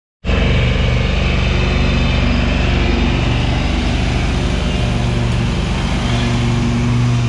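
Toro riding lawn mower's engine running steadily at a constant speed, heard loud and close from the operator's seat.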